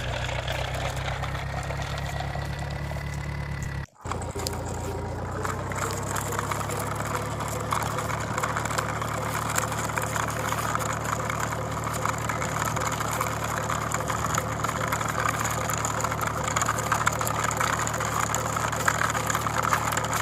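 Engine-idling sound effect for a tractor or backhoe loader, running steadily. The sound cuts out briefly about four seconds in, then a second engine sound with more rattle takes over.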